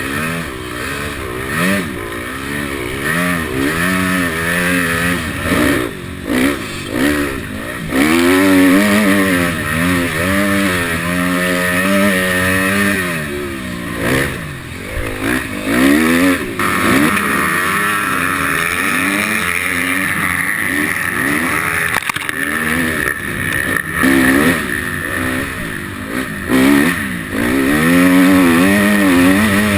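Motocross dirt bike engines revving hard and falling back again and again, as the throttle is opened and shut through the gears.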